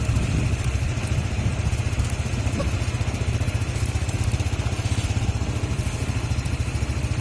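An engine idling steadily, with a fast, even low throb that does not change.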